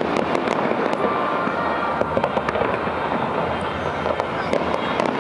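Fireworks display going off: a dense, continuous crackle of many small bangs with no pause.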